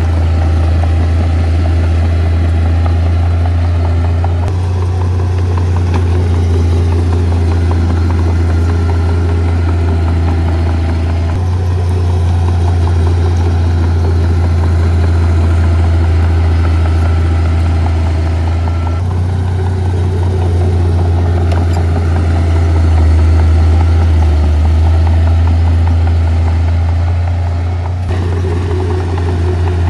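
Heavy earthmoving machinery, a bulldozer or dump truck, running its diesel engine steadily with a deep low drone. The tone changes abruptly a few times.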